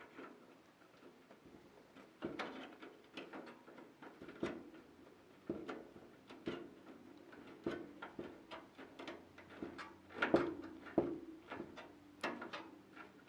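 Small, irregular metallic clicks and taps as the screws holding a graphics card's bracket to the PC case are turned in by hand with a screwdriver, the loudest knocks about ten and twelve seconds in.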